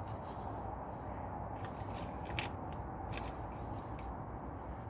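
A few light clicks and rustles of hands handling the engine oil dipstick, with a steady low background hum.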